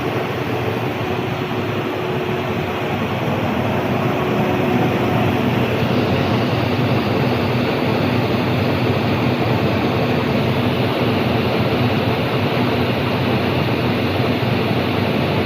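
SK 12 vertical turning lathe running with a steady mechanical hum and a few faint steady whine tones. The sound grows slightly brighter and louder about six seconds in.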